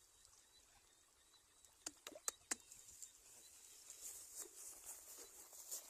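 Faint outdoor quiet broken by three quick sharp clicks about two seconds in, followed by light, high-pitched rustling and small ticks.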